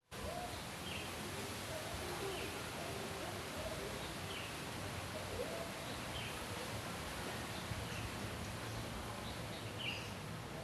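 A small bird calling outdoors: short, high calls repeated every second or two, with lower calls in the first half, over steady background noise.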